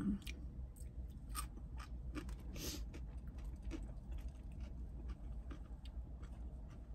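A person chewing food close to the microphone, with scattered small mouth clicks and soft crunches over a steady low rumble.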